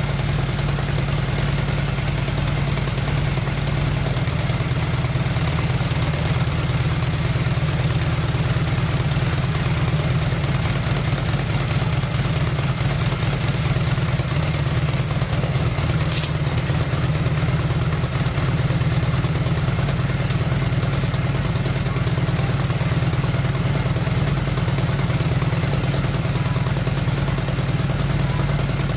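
Honda Shadow VT 600's V-twin engine idling steadily, with one brief click about sixteen seconds in.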